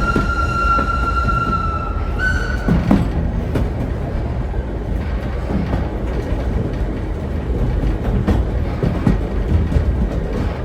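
Vintage steam train rolling along the rails: a steady low rumble with scattered knocks from the track. A high, steady wheel squeal steps slightly up in pitch about two seconds in and stops soon after.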